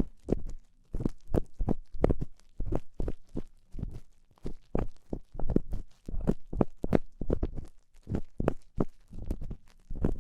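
ASMR ear cleaning on the ear of a binaural microphone: a tool scraping and rubbing inside the ear in short, irregular strokes, about two or three a second, each with a heavy low thud from the close contact.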